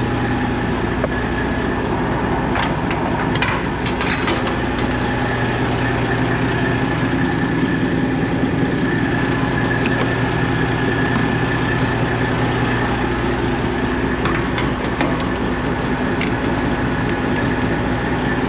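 Semi truck's diesel engine idling steadily. A few sharp clicks and knocks come about three to four seconds in and again later on.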